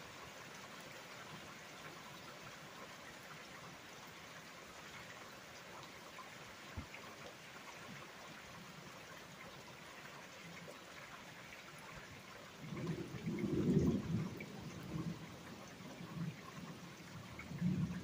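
Steady rain falling. About two-thirds of the way through, irregular low rumbling sets in, comes and goes, and becomes the loudest sound.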